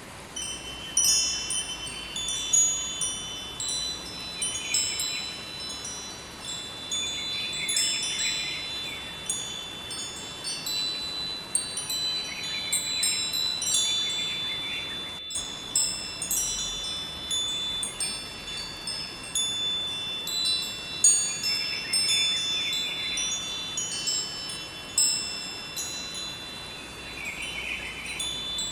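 Wind chimes ringing, struck irregularly and continuously in many high, bright tones, some notes held and overlapping. Underneath runs a faint, even rush of flowing river water. The sound cuts out for an instant about halfway through.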